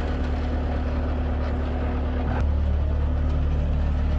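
Heavy diesel engine running steadily. About two and a half seconds in there is a sharp click, and after it the engine's low hum grows a little louder.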